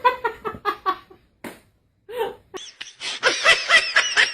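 A person laughing in quick repeated bursts, with a louder, higher-pitched run of laughter starting about three seconds in.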